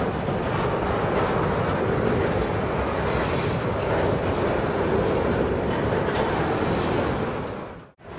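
Covered hopper cars of a freight train rolling past close by: a steady rumble of steel wheels on rail. The sound fades out sharply just before the end, then returns.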